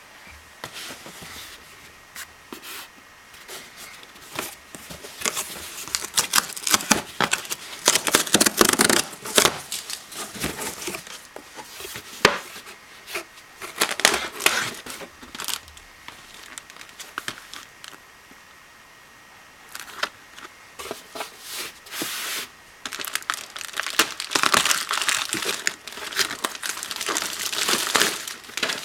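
Packaging being unwrapped by hand, with crinkling and tearing in irregular bursts, one sharp click, and a quieter pause about two-thirds of the way through.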